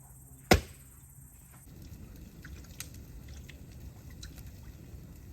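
A large campfire of damp pine burning: a steady rushing with scattered crackles and pops. A single sharp knock comes about half a second in.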